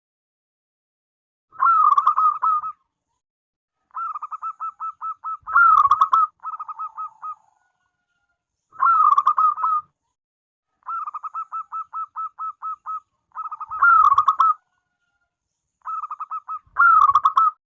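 Zebra dove (perkutut) singing: loud cooing phrases of about a second each, repeated every three to four seconds, with runs of quicker, quieter staccato notes between them.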